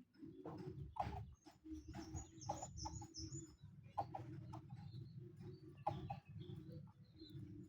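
Birds calling: low cooing notes repeat throughout, with a run of high chirps a couple of seconds in and scattered clicks.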